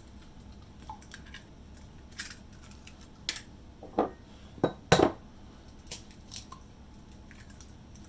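Dishes and utensils clinking and knocking in a kitchen: about half a dozen separate sharp strikes, the loudest about five seconds in.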